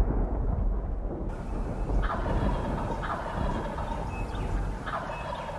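Wild turkey gobbler gobbling three times, a few seconds apart, over a low steady rumble.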